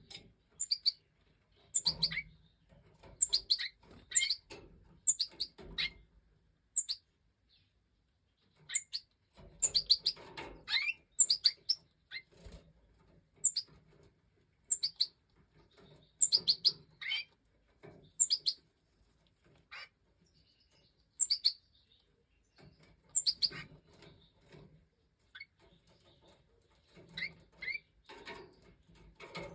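Major goldfinch chirping in short, high calls, given in bunches with pauses between them, with a few low rustles mixed in.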